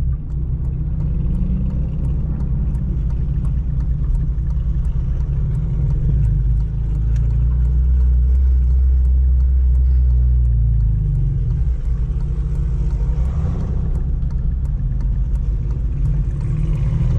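Honda Civic Si's four-cylinder engine with full bolt-on intake and exhaust, a steady loud drone while driving, its note shifting about eleven seconds in.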